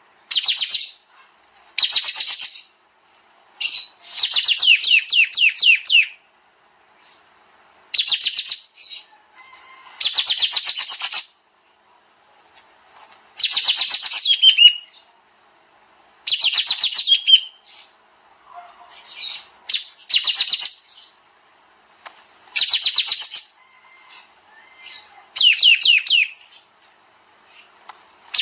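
Kapas tembak songbird singing in short bursts of very rapid, dense high-pitched trills, a new burst every two to three seconds. Some bursts end in quick falling notes.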